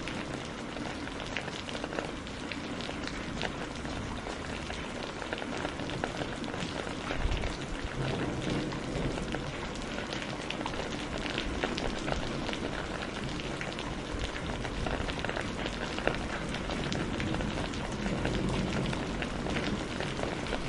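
Steady rain falling, with many small sharp crackles from a burning wood fire scattered through it.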